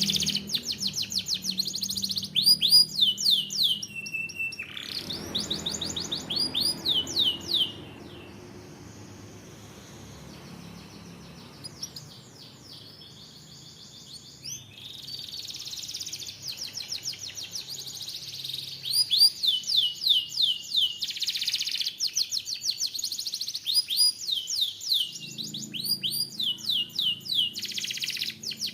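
Canary singing: rapid rolls of repeated falling whistled notes, with a pause of several seconds in the middle before the rolls resume.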